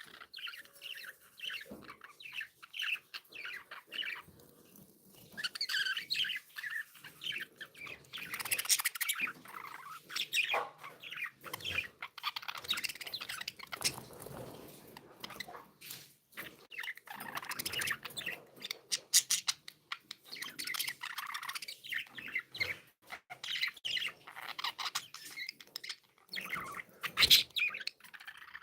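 Several budgerigars chirping and chattering without a break, in quick overlapping chirps, with scattered sharp clicks among them.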